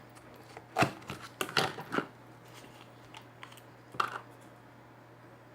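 Handling noise of slime and its plastic pots: a run of sharp clicks and rustles, loudest a little under a second in and again at about four seconds, over a steady low hum.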